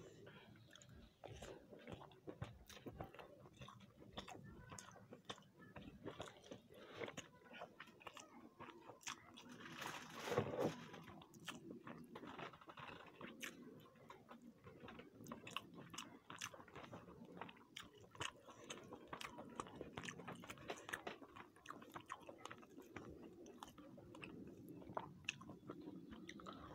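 A person chewing and biting food close to the microphone: soft, irregular mouth clicks and crunches. A brief, louder noise comes about ten seconds in.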